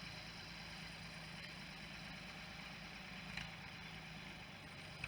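Faint, steady engine running with a low hum, with a single light tick about three seconds in.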